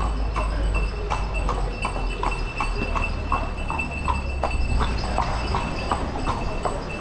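A horse's hooves clip-clopping at a steady walk, about three hoofbeats a second.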